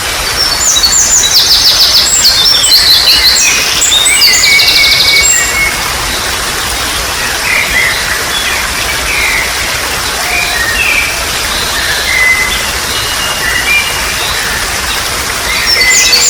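Wild birds singing over the steady rush of trickling water. Bursts of rapid repeated notes crowd the first five seconds and come back near the end, with scattered short chirps between.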